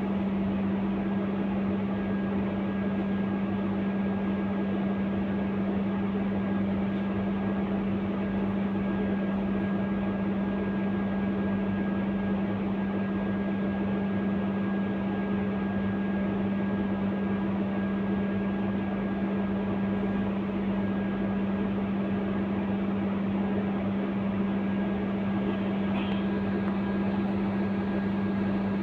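Steady drone heard inside a Scania K230UB Euro IV bus, a constant hum that neither rises nor falls in pitch.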